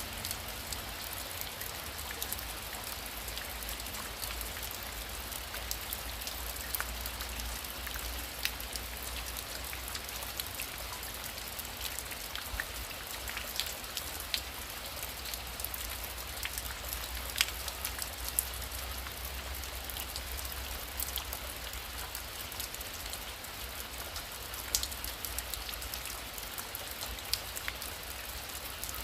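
Heavy rain falling steadily, with many individual drops ticking sharply over the dense hiss and a low steady rumble underneath.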